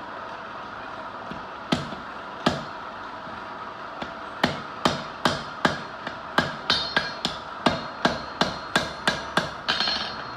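Hand hammer striking hot steel on an anvil, tacking two scarfed pieces together on the first welding heat of a fire weld: two single blows, then from about four seconds in a steady run of blows about three a second, some with a metallic ring. A steady background noise runs underneath.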